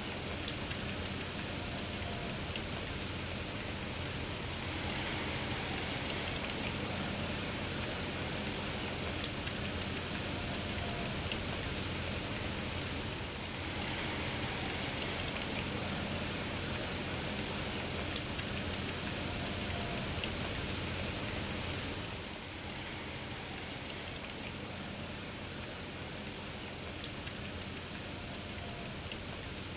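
Steady rain falling, with four sharp single drop impacts spaced about nine seconds apart. The rain eases slightly a little past two-thirds of the way through.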